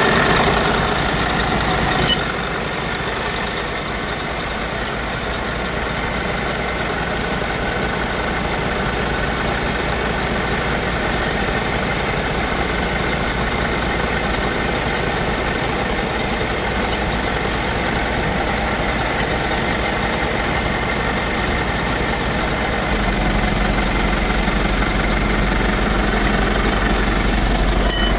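Scania P400 truck's DC13 inline-six diesel engine idling steadily. A click comes about two seconds in, where the engine gets a little quieter. From about 23 seconds its note is a little louder and deeper.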